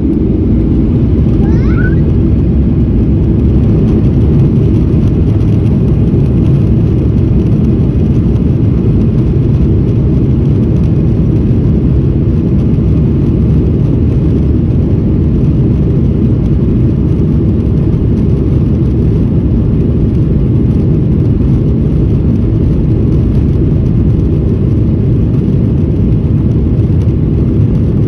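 Boeing 737-900ER's two CFM56-7B turbofan engines at takeoff thrust, a loud, steady, deep rumble.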